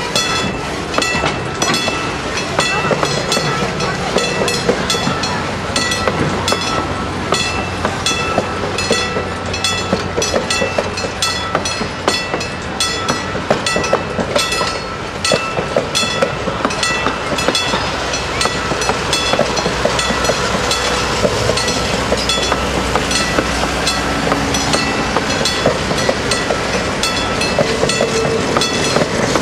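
Passenger cars of the Niles Canyon Railway's excursion train rolling past, their wheels clicking regularly over the rail joints, with a steady low rumble and a few thin high ringing tones.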